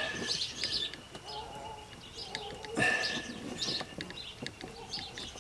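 Birds chirping outdoors: repeated short, high calls with a few longer whistled notes, and a few light clicks under them.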